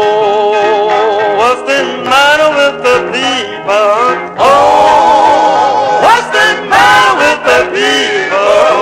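Male gospel vocal group singing an intro in close harmony, several voices holding long notes and sliding between them.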